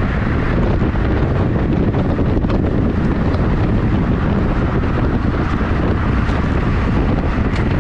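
Wind rushing over the microphone of a camera riding along on a road bike: a loud, steady rush of noise.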